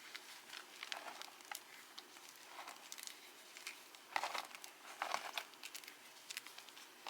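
Fresh block of Cap gym chalk crunching and crumbling as it is crushed: a run of small crackles, with two louder crunches about four and five seconds in.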